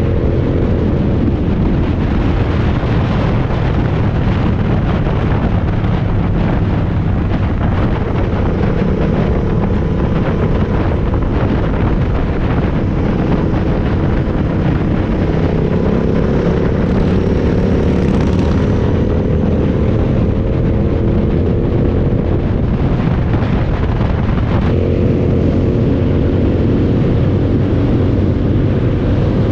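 Motorcycle engine running steadily at riding speed, its pitch drifting slowly up and down and shifting suddenly near the end, with wind rushing over the microphone.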